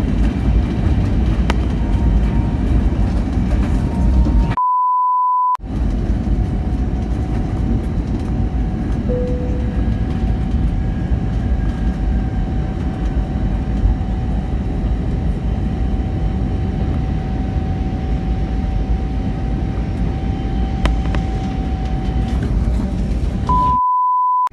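Strong gusty wind buffeting the microphone, a loud, steady low rumble. It is broken twice, about four and a half seconds in and near the end, by a one-second pure beep with everything else cut out; a faint steady high tone runs under the rumble through the middle.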